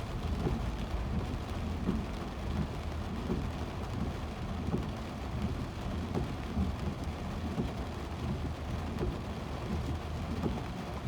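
Car cabin noise while driving in heavy rain: a steady low rumble of tyres on a wet highway, with rain hissing on the car.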